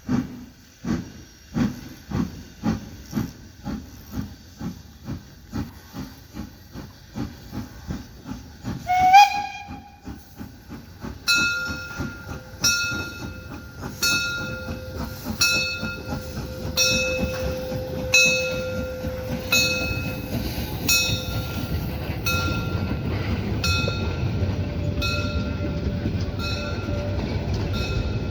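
Narrow-gauge class 99.23 steam locomotive working a train, its exhaust beating steadily at about two chuffs a second. About nine seconds in it gives a short whistle blast. The train then rolls past with a regular clicking of wheels over rail joints, about one and a half a second, over a growing rumble.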